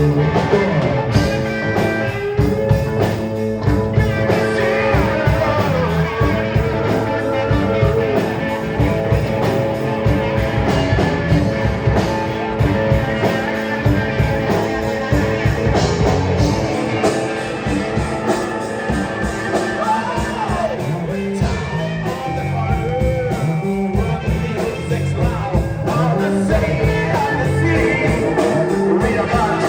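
Live rock band playing a song, with steady drum hits under sustained guitar and a singing voice.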